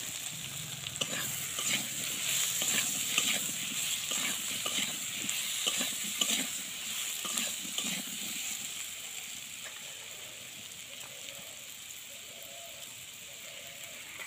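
Pumpkin and potato cubes frying in oil in a kadai, sizzling steadily, with a metal spatula scraping and stirring them through the first eight seconds or so; after that only the sizzle, somewhat quieter.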